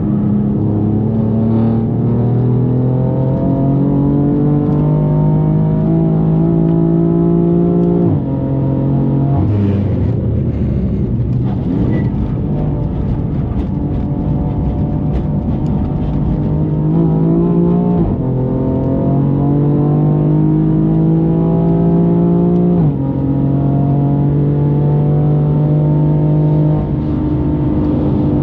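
A tuned BMW M4's twin-turbo straight-six is being driven hard. Its pitch climbs under full throttle and drops sharply at each upshift, about four shifts in all. A rougher stretch without a clear engine note comes about eight to twelve seconds in.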